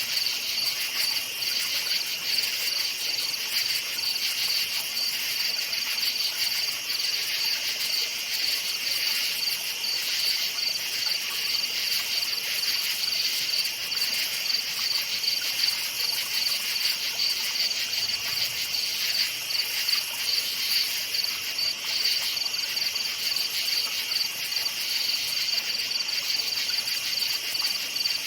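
Crickets chirping continuously in a night forest chorus, a steady high-pitched pulsing trill.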